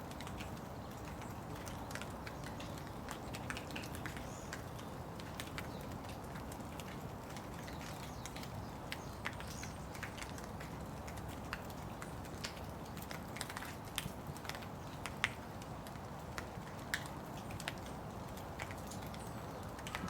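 Steady rain falling, with close drops ticking sharply and irregularly, a few louder drips standing out now and then.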